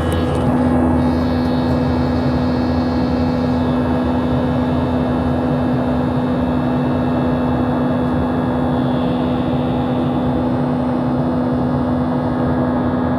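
Steady jet-engine and airflow noise inside the cabin of a Boeing 737-700, its CFM56 turbofans running: an even rush with a steady low hum and fainter higher tones over it.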